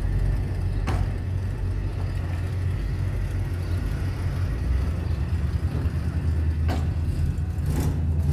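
A motor vehicle's engine running with a steady low rumble, with a few short clicks about a second in and near the end.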